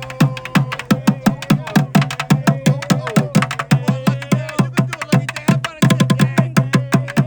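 Street drummers playing a fast, driving rhythm, with rapid sharp strikes, several a second, without a break.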